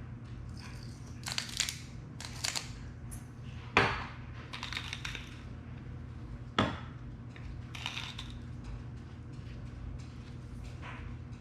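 Kitchen handling sounds while seasoning meat: scattered clicks and rattles of shakers and dishes, with two sharp knocks near the middle, over a steady low hum.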